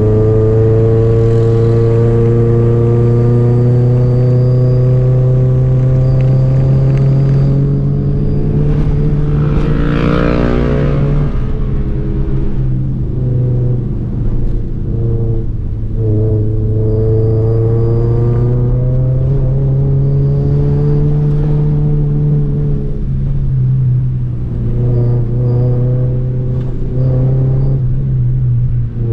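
Honda Civic Nouva's four-cylinder engine pulling in second gear up a steep climb, heard from inside the cabin. The engine note climbs slowly, sags for a few seconds around the middle, then rises again, with another brief dip near the end.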